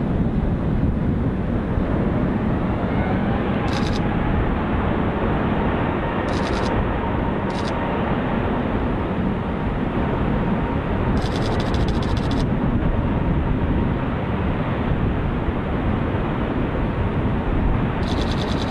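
Jet airliner engines: a steady, continuous rumble with faint slowly gliding whine tones.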